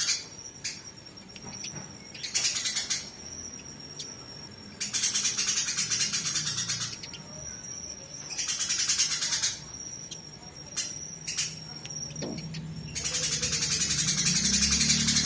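Eurasian tree sparrows fighting: harsh, dense chattering in bursts about a second long, repeated about every two to four seconds. Between the bursts come thin, steady high whistled notes and sharp chips. A low hum comes in near the end.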